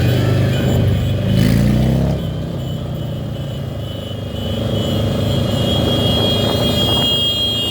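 Motor vehicle engines running in street traffic. One engine revs up briefly about a second and a half in, and a steady high tone is heard in the second half.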